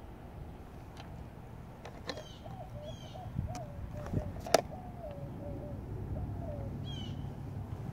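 Outdoor birdsong: short high chirps that drop in pitch, repeated a few times, and in the middle a run of lower, wavering cooing notes. A sharp click about four and a half seconds in is the loudest sound, over a steady low rumble.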